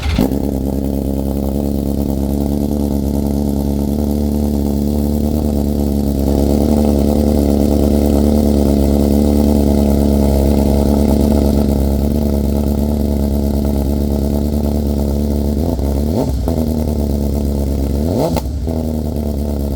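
BMW S1000RR inline-four motorcycle engine idling steadily through an Akrapovic full titanium exhaust. Near the end it gives two short throttle blips, each rising and falling quickly.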